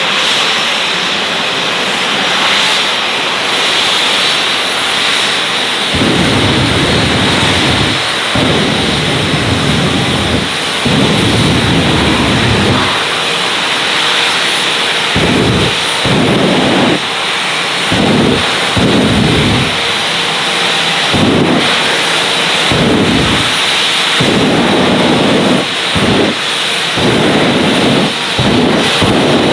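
Jet engine of a 1940 Ford pickup jet truck running with a loud, steady roar. From about six seconds in, it is broken by repeated deep rumbling surges that come and go about once a second.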